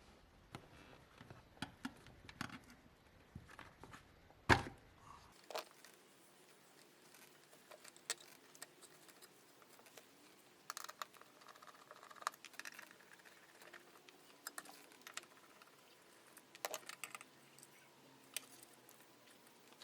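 Scattered light clicks and clinks of small hard objects being handled, with one sharper knock about four and a half seconds in.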